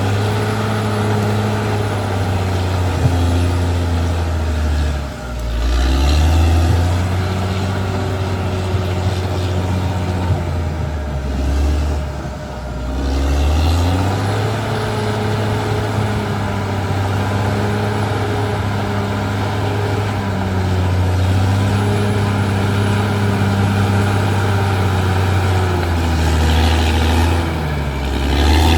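Caterpillar D6R XL bulldozer's diesel engine running steadily, its note sagging briefly about five seconds in and again around twelve seconds in before picking back up.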